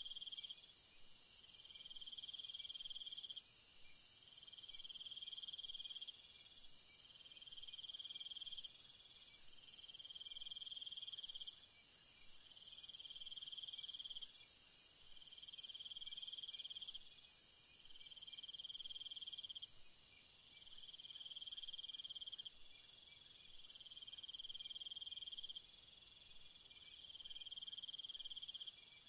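A chorus of night insects. A steady, very high-pitched trill runs underneath, and a lower pulsing call, each pulse lasting over a second, repeats about every two seconds. Part of the high trill drops out about two-thirds of the way through.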